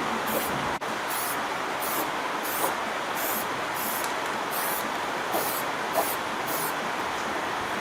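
Steady spraying hiss, with a faint high pulse about twice a second.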